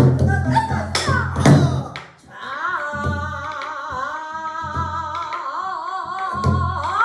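Pansori: a singer's voice with wide, wavering vibrato accompanied by a gosu striking the buk barrel drum. Several heavy drum strokes come in the first two seconds, then after a brief pause the singer holds a long wavering line, with drum strokes returning near the end.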